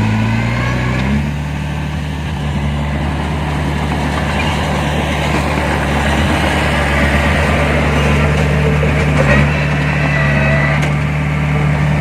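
Heavy diesel engine of an earthmoving machine running steadily, its note changing about a second in.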